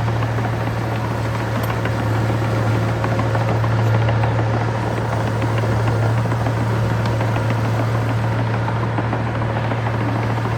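Heavy construction machine's diesel engine running steadily, a deep even drone.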